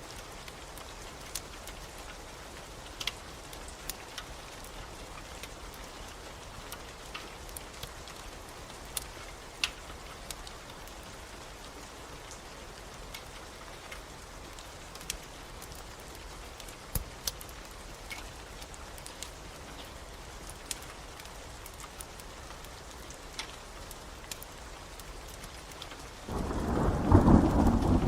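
Steady rain with scattered sharp crackles and pops from a fireplace fire. Near the end a loud rumble of thunder rolls in.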